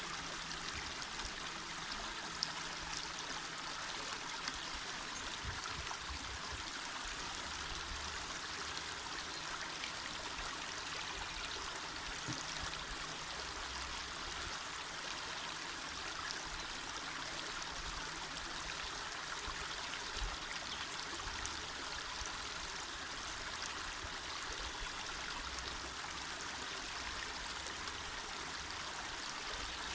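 Small mountain river running over stones: a steady rushing babble of water with occasional faint splashes.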